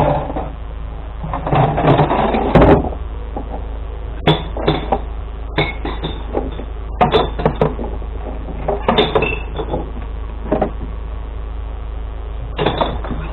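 Glass-collection truck's engine idling steadily, with a series of irregular knocks and clunks, the loudest a burst about two seconds in.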